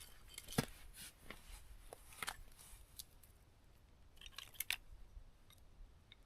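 Small campfire crackling faintly, with scattered irregular snaps and pops as freshly lit kindling catches.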